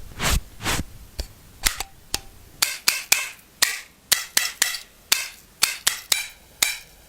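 An irregular run of about twenty sharp pops or cracks, sparse at first and coming faster from a third of the way in, some with a brief ringing tone.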